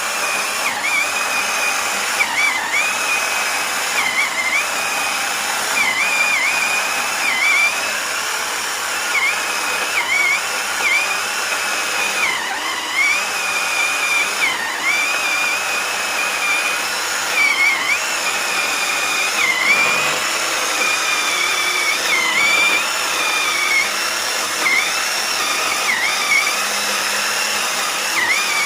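Two-stroke chainsaw engine running at high revs with a high whine, the revs dipping briefly and picking back up every second or two.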